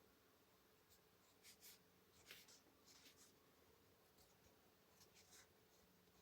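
Faint scratching of a colored pencil stroking on paper, several short strokes at an uneven pace, over a faint steady hum.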